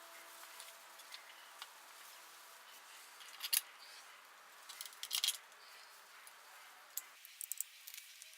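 A few light clicks and short rattles of something being handled, in three small clusters about a second and a half apart, over faint hiss.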